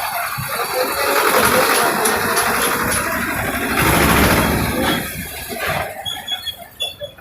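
Heavy vehicle passing close, engine noise with a squeal, swelling to its loudest about four seconds in and falling away about six seconds in.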